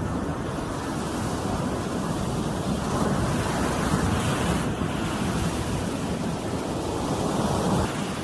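Ocean surf washing onto a shore, with wind buffeting the microphone; the wash swells louder twice.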